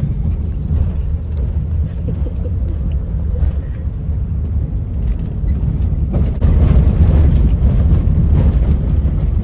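Steady low rumble, growing louder about six seconds in.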